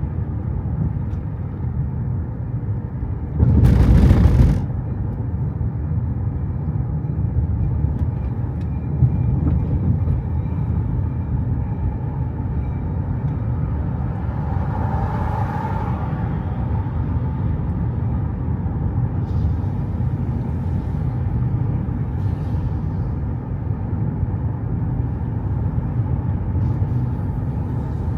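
Steady low rumble of a vehicle in motion, with a loud hiss lasting about a second near four seconds in and a fainter swell about halfway through.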